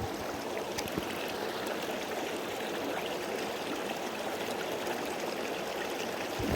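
Creek water rushing steadily, with a couple of faint knocks about a second in.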